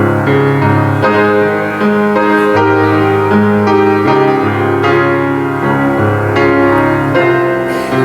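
Piano music: a slow piece of held chords that change every second or so.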